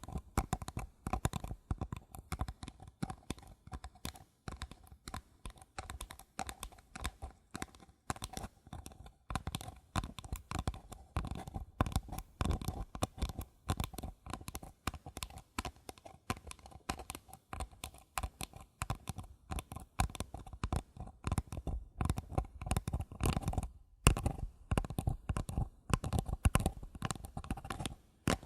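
Fingertips and nails tapping quickly and softly on paper cups, several light taps a second with a faint hollow ring from the cup.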